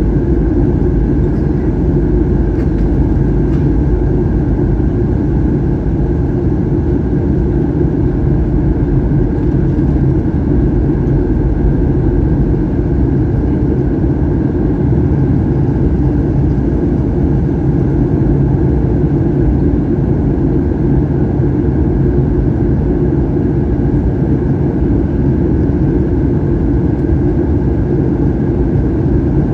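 Steady cabin noise inside a Boeing 737-800 in flight: the even drone of its CFM56-7B turbofan engines and the rush of air past the fuselage, with a few steady hums underneath.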